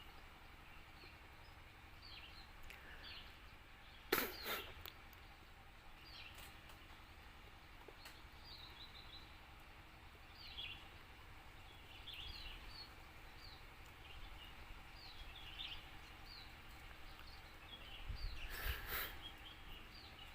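Small birds chirping in short, high calls again and again over a faint outdoor background. There is a sudden loud, sharp sound about four seconds in, and a longer noisy sound near the end.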